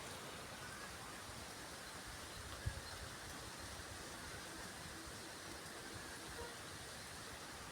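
Faint outdoor ambience: a steady low hiss with a single soft low thump about two and a half seconds in.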